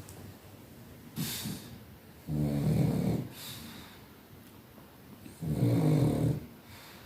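A pug snoring: two loud snores, each about a second long and about three seconds apart, with short, softer, hissy breaths between them.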